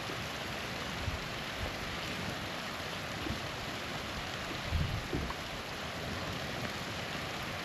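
Steady rush of a small waterfall, with a few soft low thumps about a second, three seconds and five seconds in.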